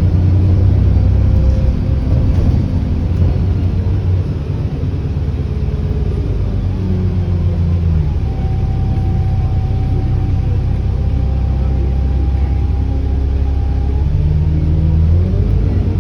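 ADL Enviro400 double-decker bus running with a heavy diesel rumble, the engine note dipping and rising a couple of times. About halfway through, a thin steady turbo whine joins it and holds for several seconds.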